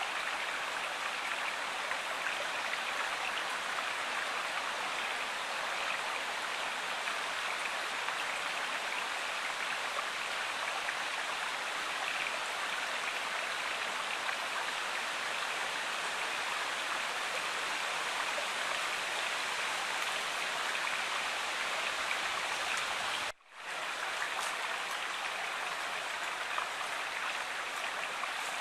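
Steady rushing water of a river or stream, with a brief drop-out about three-quarters of the way through.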